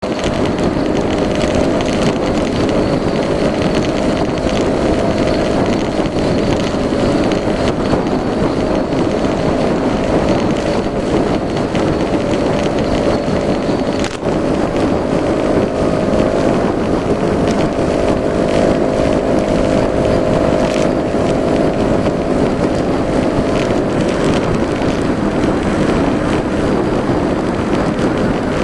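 Yamaha Majesty S 155 scooter's single-cylinder engine running steadily, with a brief dip about halfway through.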